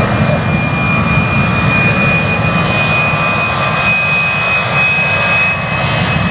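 Jet airliner engines at take-off power, loud and steady, with a high fan whine held on one note over the noise of the engines.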